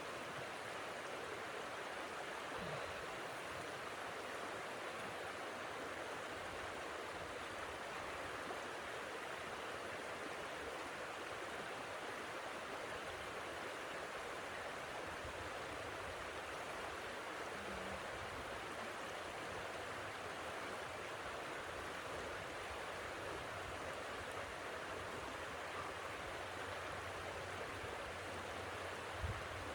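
Steady rushing of blizzard wind, an even hiss that holds level without gusts or breaks.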